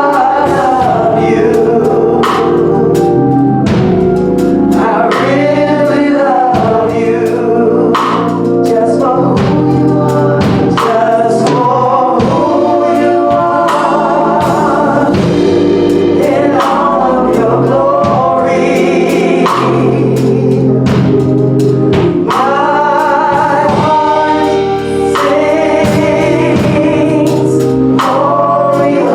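Gospel choir singing over instrumental backing, with sustained low bass notes and regular percussion strikes.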